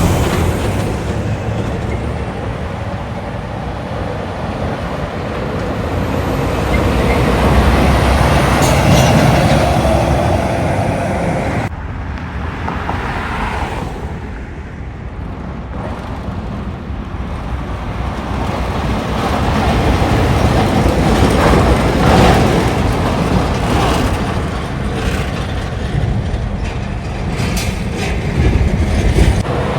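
Semi-trucks driving past: diesel engine and tyre noise that swells as each rig passes and fades away. The sound cuts off abruptly about twelve seconds in and picks up again.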